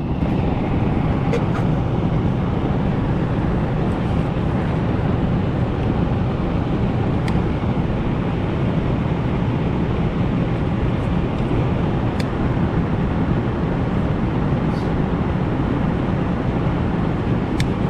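Air handler's blower running with its electric heat strips energized: a steady rush of air with a low rumble, a few faint clicks scattered through it.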